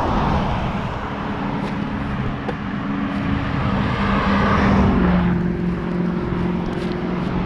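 Road traffic: motor vehicles running past, with a steady engine hum that shifts pitch about five seconds in.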